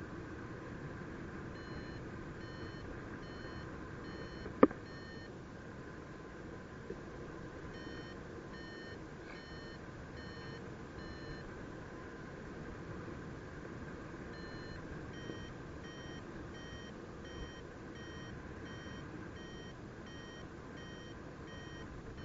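Flight variometer beeping in runs of short, even beeps at about two a second, the climb tone that signals the paraglider is rising in lift. A steady rush of wind on the microphone runs underneath, and a single sharp click comes about four and a half seconds in.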